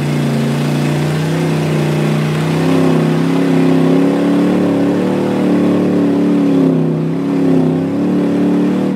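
Ice-racing car's engine heard from inside the cabin, running hard. The revs hold steady for about a second, then keep rising and falling through the middle as the car is driven around the ice track.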